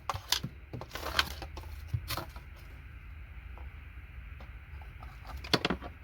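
Scattered sharp metal clicks and taps of a chisel working on small electronic parts: a few in the first two seconds, then a quick cluster of three near the end, over a steady low hum.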